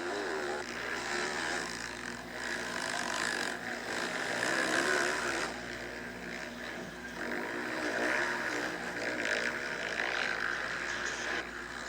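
Motocross bikes with four-stroke 450cc engines racing round the track, their engines revving up and down, wavering in pitch as they accelerate and ease off.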